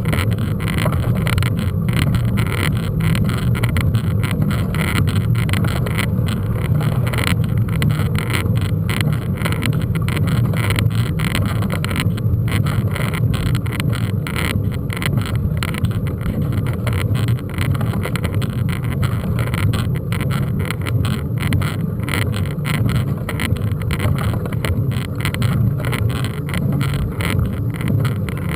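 Mountain-bike ride recorded on a bike-mounted camera: a steady low rush of wind and rolling noise, with constant rapid rattling and clicking as the bike goes over rough ground.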